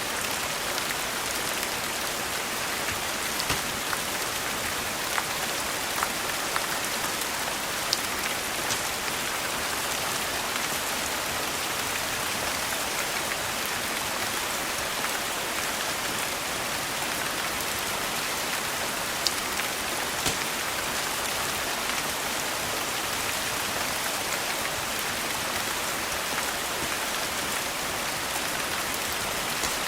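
Steady rain falling, with a few sharp crackles from a wood fire scattered through it.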